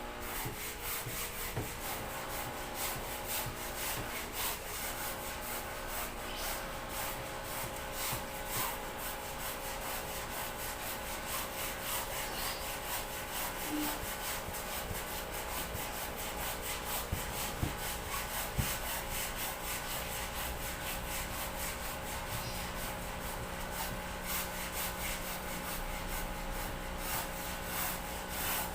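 Rapid, repeated rubbing strokes against a surface, kept up steadily.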